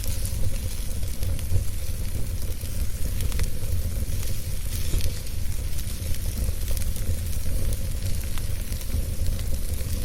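Wood fire burning steadily: a low rumble of flames with a constant hiss and frequent small, sharp crackles and pops.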